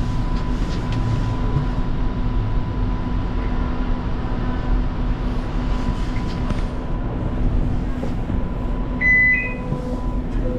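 Inside an Alstom Citadis Spirit light-rail car: steady rumble with a constant electrical hum. About nine seconds in, a short electronic beep steps up from one note to a higher one.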